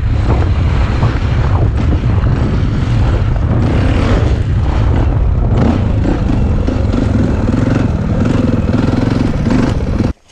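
Dirt bike engine running loudly while riding, with heavy low rumble and noise; it cuts off suddenly near the end.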